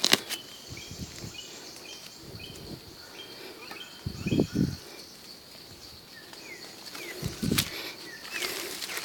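Rustling and handling noises with two dull thuds about four and seven seconds in, from a person moving about on the forest floor picking mushrooms. Short high bird chirps repeat through the first half, over a steady high hiss.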